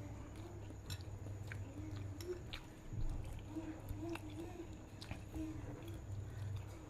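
A person chewing a mouthful of bakso meatball, with small wet mouth clicks and smacks scattered through it.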